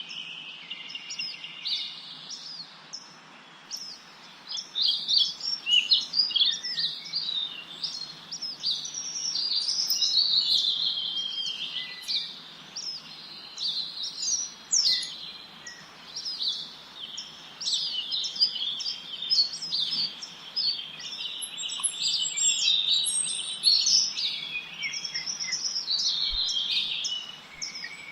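Several small birds chirping and singing together in a dense, overlapping chorus of quick high-pitched chirps and trills, over a faint steady hiss.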